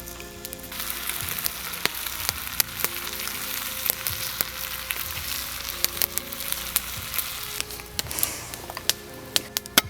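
Food frying in a hot pan: a steady sizzle that starts about a second in and dies down near the end, with sharp crackles and pops throughout.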